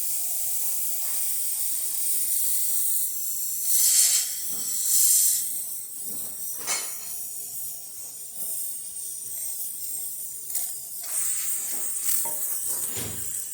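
Breville Dual Boiler espresso machine hissing steadily as steam and hot water spurt from its outlet, working normally. It swells louder twice, about four and five seconds in, and a few sharp clicks come later.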